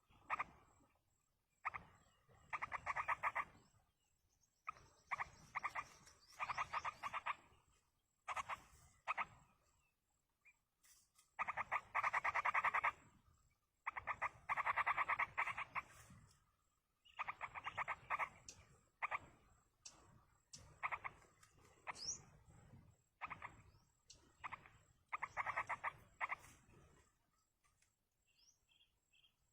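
Yellow-vented bulbul nestlings begging: repeated bursts of fast, raspy chattering, each up to about two seconds long, with short pauses between. The calls fade out near the end.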